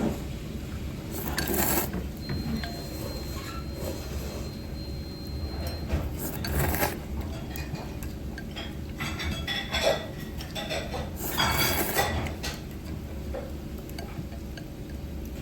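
Eating from a soba bowl with chopsticks: scattered light clinks of chopsticks against the bowl and several short noisy bursts, over a steady low background hum.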